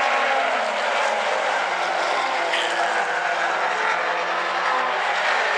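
Late model stock cars racing around an oval track at speed, several engines running at once with their overlapping tones drifting slightly in pitch.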